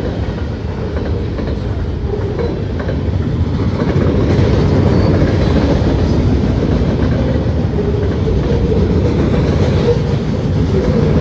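Freight train's loaded flatcars rolling past close by: steel wheels running on the rails in a steady rumble, a little louder after about four seconds.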